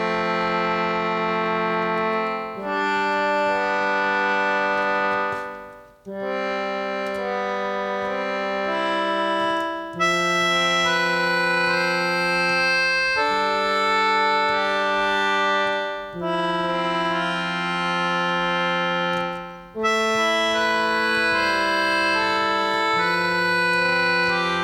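Concertina samples played back as chords on a Teenage Engineering OP-1: a slow run of sustained reedy chords, a new chord every three or four seconds, with a few brief dips in level between them.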